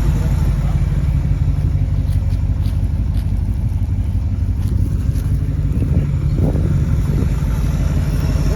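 1968 Ford Torino GT's V8 idling steadily.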